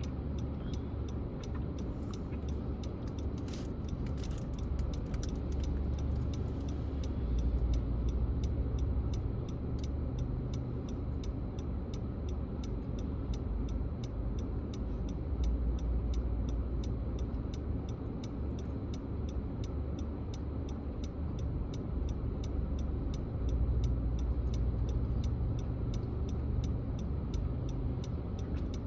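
Car driving: a steady low rumble of engine and road noise, swelling a little now and then, with a faint, quick, regular ticking all through.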